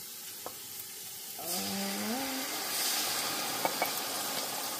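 Onions frying in hot oil as blended pepper paste is scraped into the pot with a wooden spoon; the sizzling gets louder about a second and a half in as the pepper meets the oil. Two light knocks a little later.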